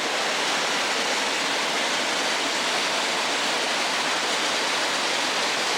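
Steady, even rush of a waterfall and its brook tumbling over rocks.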